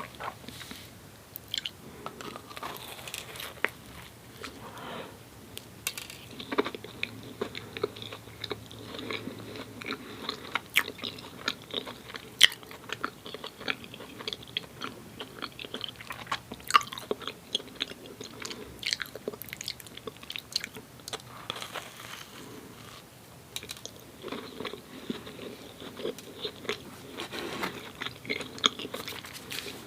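Close-miked chewing and biting of soft glazed doughnuts, with many short wet mouth clicks and smacks throughout.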